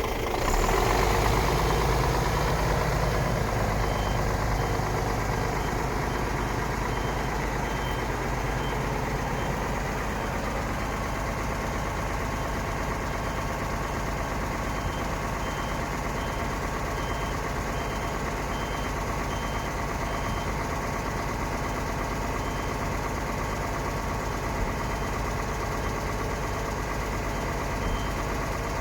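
Scania R124.360 truck's 12-litre six-cylinder diesel engine idling. It is slightly louder in the first couple of seconds, then settles to a steady idle. A faint, high, intermittent beep repeats over it.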